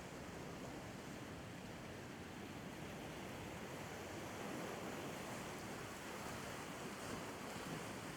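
Sea waves washing against the shore in a steady wash of noise, swelling a little about halfway through.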